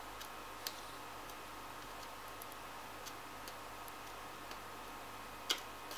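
Faint steady hum with a few small, sparse clicks, the loudest about five and a half seconds in.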